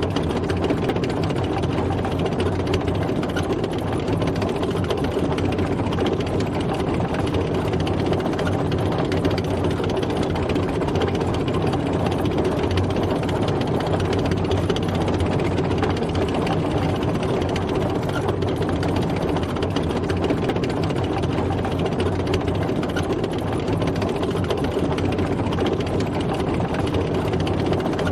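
Tank driving, its engine running steadily with a dense mechanical rattle over it.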